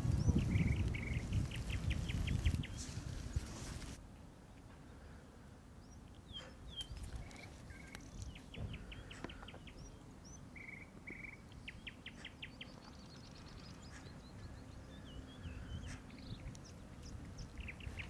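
Small birds singing: repeated short trills of rapid, evenly spaced notes and brief chirps, over and over. Wind buffets the microphone for the first few seconds, then stops abruptly.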